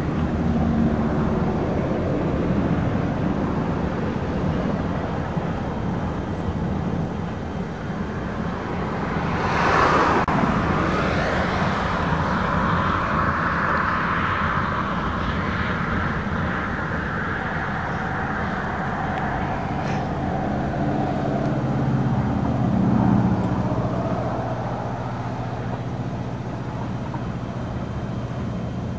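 Freight train rolling past: a steady rumble of railcars on the track, with a brief louder rush about ten seconds in.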